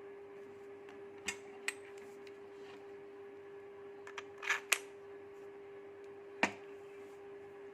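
A handful of sharp clicks and knocks as the side handle is handled and fitted onto a Makita hammer drill, not running, over a steady faint hum.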